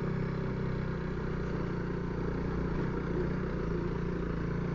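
Honda CRF300L single-cylinder engine running steadily while riding, picked up through a helmet Bluetooth intercom microphone.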